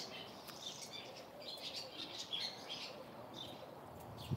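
Small birds chirping, many short chirps in quick succession, with a soft thump near the end.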